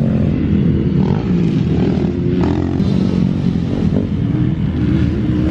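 Dirt bike engine running at moderate revs, its pitch wavering a little as the throttle is worked.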